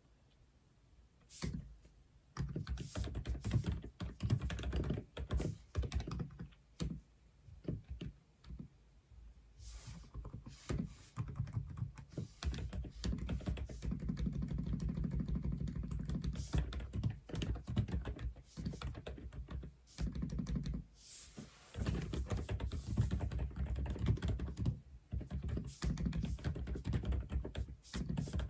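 Typing on an Aula F87 (독거미) mechanical keyboard: a quick, dense run of keystrokes that starts about two seconds in, with short pauses around the middle and again about two-thirds of the way through.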